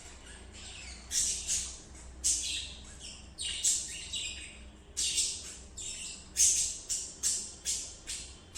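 Budgerigar chirping: a string of short, high chirps, a dozen or more, coming at irregular intervals.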